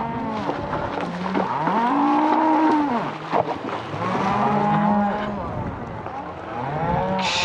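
Cattle bawling: several long, overlapping moos that rise and fall in pitch, one after another throughout.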